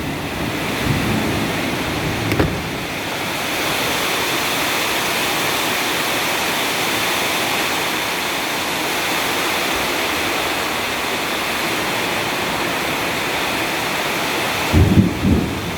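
Heavy rain pouring down steadily in a thunderstorm, a dense even hiss, with a brief low rumble near the end.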